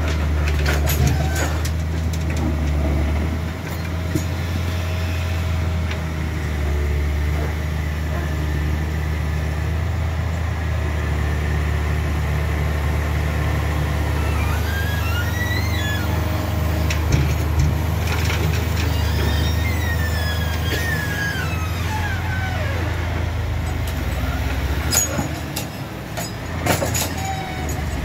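Truck engine running steadily, with wavering high-pitched squeals about halfway through.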